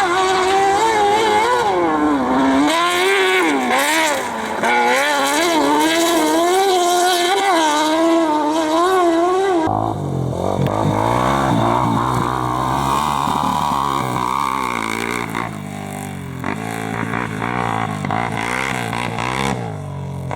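Competition engine revving hard on a dirt slalom course, the pitch climbing and dropping quickly with throttle and gear changes. About halfway through it switches abruptly to a different, lower-pitched engine running under load.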